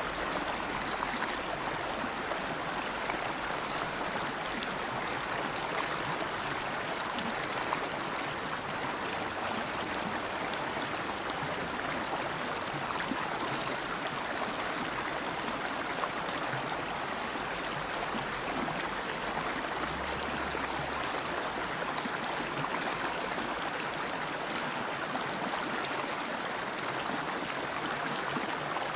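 River water flowing over rocks in a steady, even rush, with no change or break.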